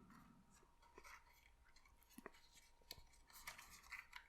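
Faint crinkling and soft crackles of thin card stock being folded and creased by hand, a few brief rustles scattered through the quiet.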